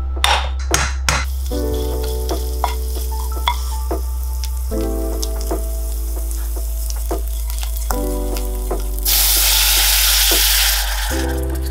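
'Nduja sizzling and crackling as it fries in its own fat in a stainless steel pot while being stirred, with a few sharp clicks in the first second. About nine seconds in, a much louder hiss lasts about two seconds as prawn bisque is poured into the hot pot.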